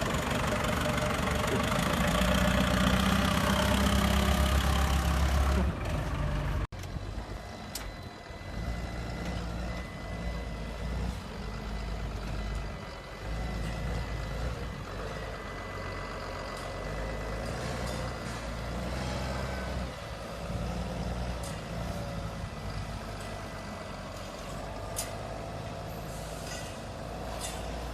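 Heavy diesel truck engine running with a deep rumble. About seven seconds in, the sound breaks off abruptly and gives way to a quieter truck engine running, with a faint steady high tone over it for a while.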